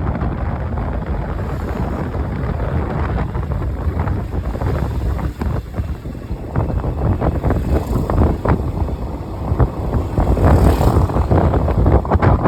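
Wind buffeting the microphone on a moving motorcycle, over the motorcycle's running engine and road noise; the gusting grows louder about ten seconds in.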